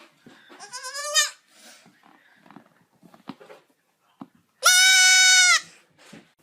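A goat bleating twice. The first call is wavering and rising, about a second long. The second is a louder, flat, held scream of about a second, starting near the end.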